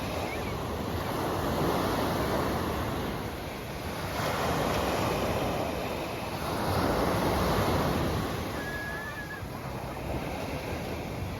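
Sea waves breaking on the shore, the surf swelling and falling back in three surges a couple of seconds apart.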